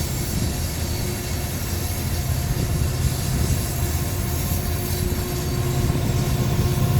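Diesel locomotives in the middle of a BNSF freight train running as the train passes, a steady low engine drone over the rumble of the rolling cars, growing a little louder near the end.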